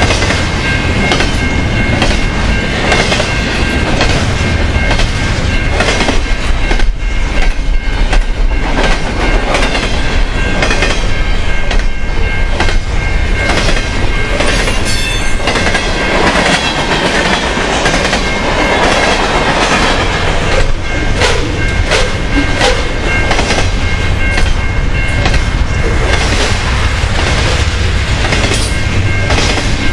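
Double-stack intermodal container well cars rolling past at track speed: a loud, steady rumble of wheels on rail with repeated clicks as wheelsets cross rail joints, and a steady high-pitched ring over it.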